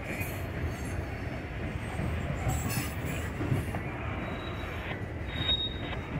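Freight train of loaded covered hopper cars rolling past on the track, a steady rumble of wheels on rail, with a thin high wheel squeal coming in about four seconds in.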